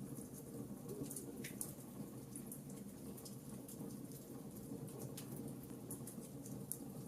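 Fireplace fire crackling: frequent small, sharp snaps and pops scattered irregularly over a steady low rumble, with a slightly fuller pop about a second and a half in.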